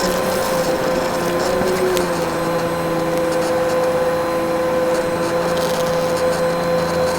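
Vacuum cleaner running steadily, its motor giving a constant hum over the rush of air, with a few faint clicks of debris.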